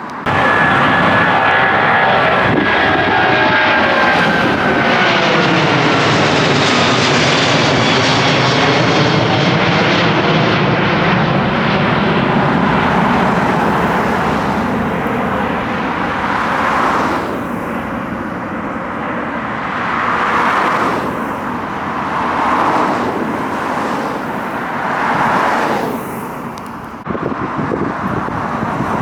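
Widebody jet airliner climbing out low overhead on takeoff. Its engines run loud, with a whine whose pitch falls steadily as it passes, then the rumble fades and swells as it flies away.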